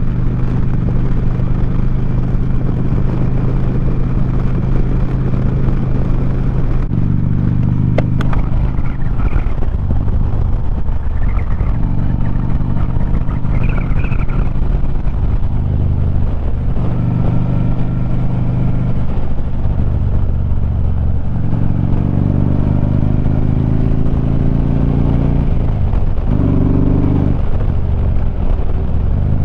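2009 Harley-Davidson Street Glide's V-twin running through 4.5-inch Sharkroad mufflers while being ridden, its note stepping up and down several times with throttle and gear changes, over wind noise. A sharp click comes about eight seconds in.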